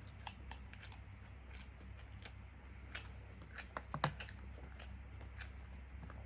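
Close-miked chewing and biting of karaage (Japanese fried chicken): irregular wet mouth clicks and light crunches, with a short cluster of louder clicks about four seconds in. A steady low hum runs underneath.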